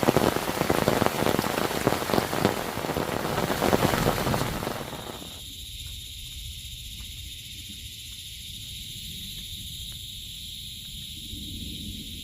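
Heavy rain pattering densely, fading out about five seconds in. It gives way to a steady high insect drone with a few faint drips.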